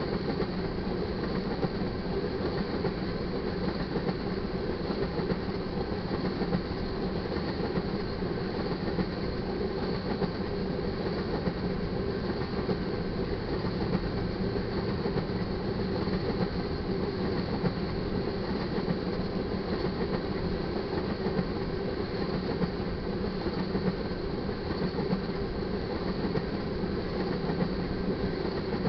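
Tank cars of a crude oil freight train rolling past at a steady speed, their wheels running on the rails in an even, unbroken rumble.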